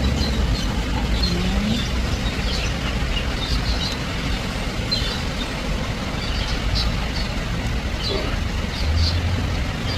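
Short, high bird chirps repeating on and off throughout, over a steady low rumble.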